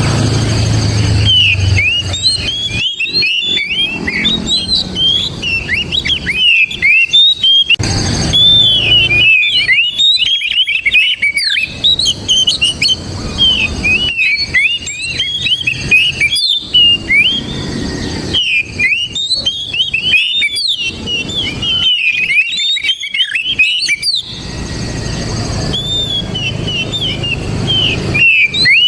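An Oriental magpie-robin sings a loud, varied song of rapid whistled notes in bouts with short pauses. A low rumble sits underneath at the start and again near the end.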